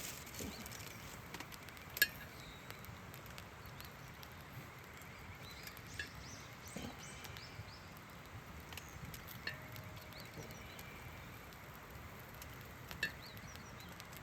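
Quiet background with a handful of short, sharp clicks and taps, the loudest about two seconds in and a smaller one near the end.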